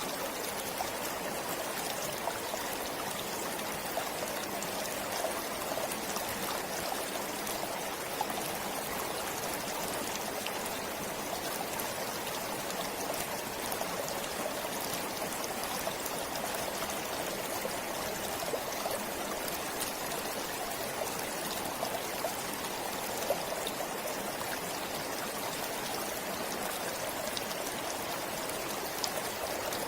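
Forest stream running steadily, with a continuous babble of water and small splashes and trickles.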